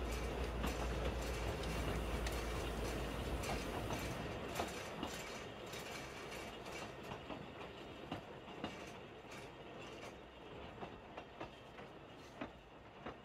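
A narrow-gauge train running along the line. Its low rumble fades out after about four seconds, while the wheels keep clicking over the rail joints, more and more faintly as it moves away.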